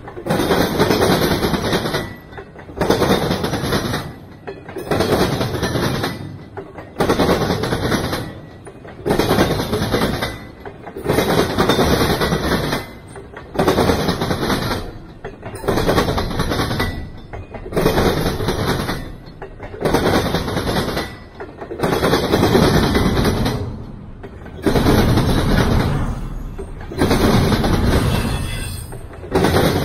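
Intermodal freight train's well cars, stacked with containers and trailers, rolling past close by: steady rattling and clattering of steel wheels on rail in regular bursts, one about every two seconds, with brief lulls between.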